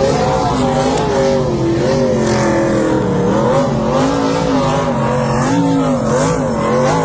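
NASCAR Truck Series race truck's V8 engine revving hard during a burnout, its pitch rising and falling in repeated waves.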